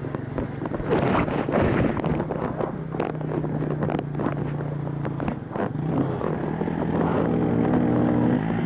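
Dirt bike engine running under way, with repeated knocks and rattles from about a second in as the bike rides over rough ground, and the engine note rising near the end.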